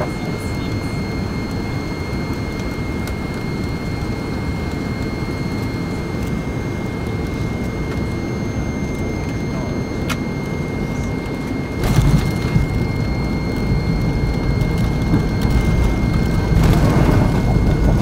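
Jet airliner cabin noise on an MD-88: a steady engine hum with a thin high whine. About two-thirds through there is a sudden jolt, and the low rumble then grows louder toward the end.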